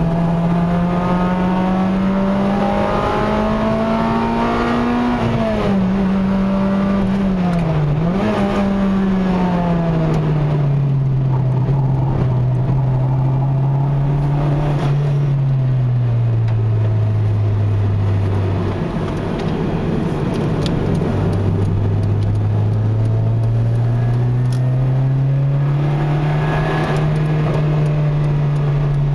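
Honda Integra Type R (DC5) 2.0-litre K20A four-cylinder engine heard from inside the cabin at part throttle, with road noise underneath. The engine note climbs gently, dips sharply twice around five and eight seconds in, then sinks to a low drone by the middle and climbs again near the end.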